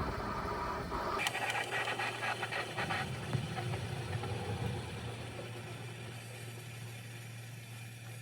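Honeywell HAC8 window air conditioner running with a steady low hum. A rattling clatter sounds in the first couple of seconds and fades out.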